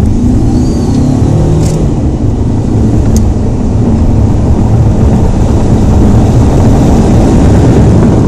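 Alfa Romeo 159 1.9 JTDm's four-cylinder turbodiesel accelerating hard, heard from inside the cabin along with loud road and wind noise. The sound builds over the first second, then holds loud and steady.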